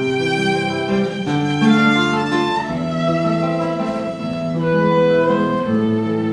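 A violin and guitar duo playing live. The violin holds long sustained melody notes over the guitar's changing bass and accompaniment.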